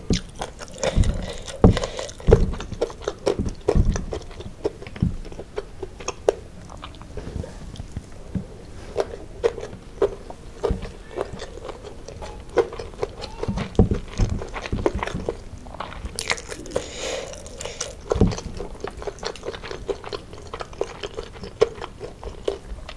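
Close-miked mouth sounds of chewing fried chicken and rice: wet smacks and clicks, with occasional crunches.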